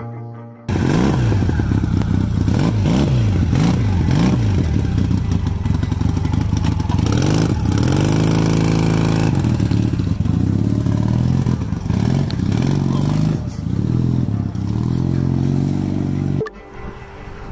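Honda CM400A Hondamatic's parallel-twin engine being revved in repeated quick rising-and-falling blips, held at higher revs for a couple of seconds around the middle, then blipped again before the sound cuts away near the end.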